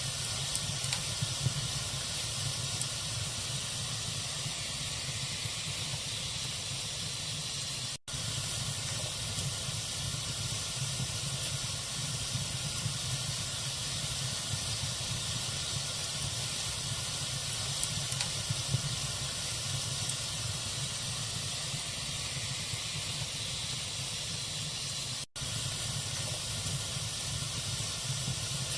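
Wood fire burning in a fireplace: a steady hiss of burning logs with a few small crackles and pops. The sound cuts out for an instant twice.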